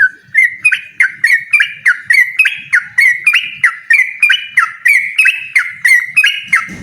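Yellow-vented bulbul singing a long, unbroken run of loud, quick notes, about three a second: the rapid continuous song (ropel) of a bird in full voice challenging a rival.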